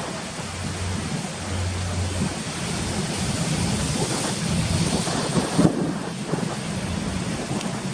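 Wind buffeting the microphone over the sound of the sea, a steady rushing noise with a low rumble; a brighter hiss builds in the middle and cuts off suddenly a little before six seconds in.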